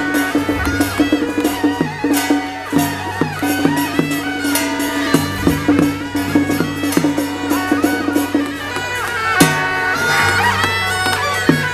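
Traditional Chinese temple ritual music: a shrill, reedy wind melody with sliding notes, played over regular percussion strikes.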